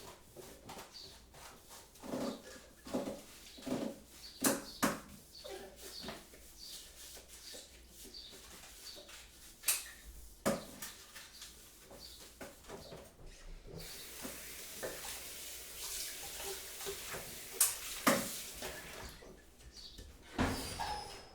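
Kitchen work: crockery and utensils clinking and knocking at irregular intervals, with a tap running for about five seconds past the middle.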